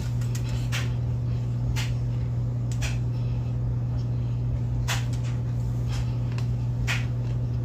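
Steady low hum, with a few sharp clicks or cracks scattered through it.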